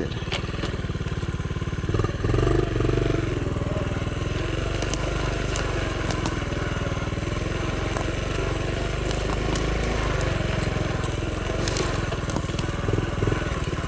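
Honda CT70's small single-cylinder four-stroke engine running at low speed, its pitch wandering gently up and down as the bike is ridden over rough trail. Scattered crackles and snaps come through the engine sound.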